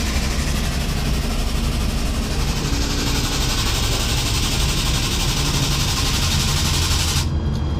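Heavy truck diesel engine idling with a steady low rumble, under a loud even hiss that cuts off suddenly near the end.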